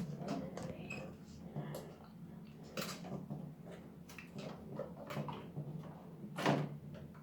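Scattered clicks and knocks of hands working a plastic electrical connector loose from a car's in-tank fuel pump unit, with a louder knock about six and a half seconds in.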